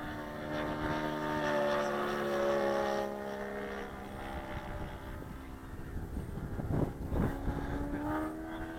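Saito 180 four-stroke engine of an RC Percival Mew Gull model plane in flight, its pitch shifting as it flies: steady at first, lower and quieter from about three seconds in, then rising again near the end. Wind buffets the microphone about seven seconds in.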